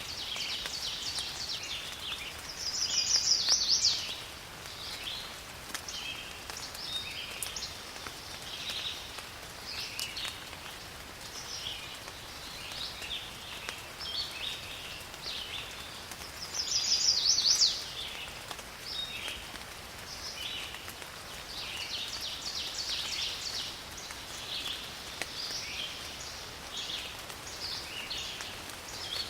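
Forest ambience: many birds calling over a faint hiss of rain. A louder, rapid trill stands out twice, about three seconds in and again about seventeen seconds in.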